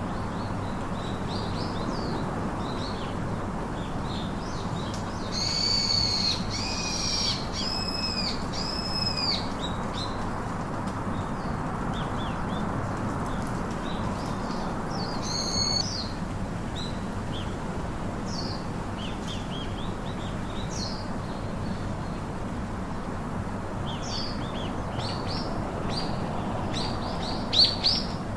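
Several birds chirping and calling, with a run of loud arched calls about five to ten seconds in and a sharp call near the end, over a steady background hiss.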